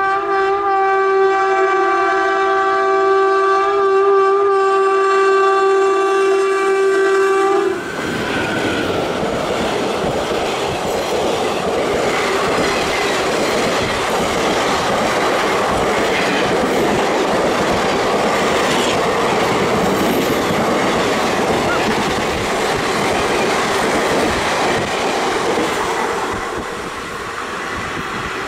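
WAP-4 electric locomotive's horn sounding one long steady blast, cut off sharply about eight seconds in. Then the express's passenger coaches run past, wheels clattering over the rail joints, easing off a little near the end.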